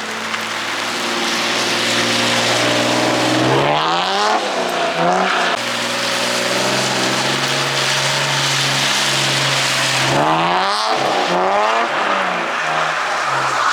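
Drift car engine running at high revs, with the revs sweeping down and climbing again twice, about four seconds in and again about ten seconds in. Rain hiss underneath.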